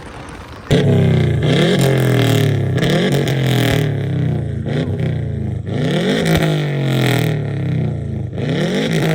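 A loud car engine cuts in suddenly about a second in and is revved over and over, each rev a quick rise in pitch that falls back.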